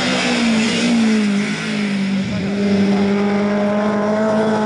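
Rally car's engine running hard at high revs as the car is driven through a corner. The note dips slightly about a second in and then holds steady.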